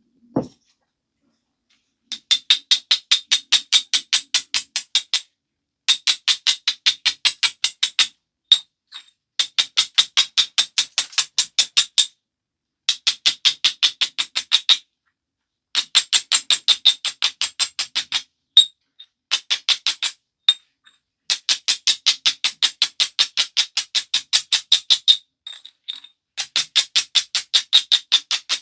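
A stone biface's edge being rubbed with an abrader in quick back-and-forth strokes, about six a second, in runs of two to four seconds with short pauses between: the edge is being ground to prepare platforms for flaking.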